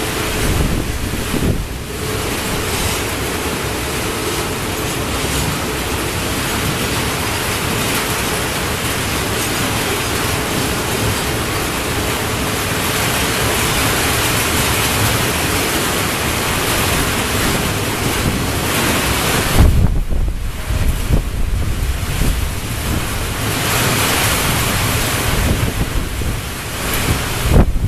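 Freight train of tank wagons rolling slowly past, a steady rushing noise of wheels on rail, with wind buffeting the microphone in gusts about two-thirds of the way through and again near the end.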